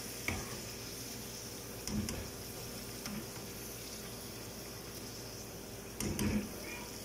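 Carrot slices frying in hot oil: a steady sizzle, with a few short clinks and knocks of a utensil against the pan or strainer, the loudest near the end.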